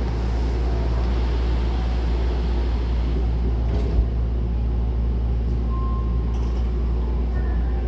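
Hankyu commuter train running through the Osaka Metro Sakaisuji Line subway tunnel, heard from inside the car: a steady, heavy rumble of wheels and running gear, with one short knock about four seconds in.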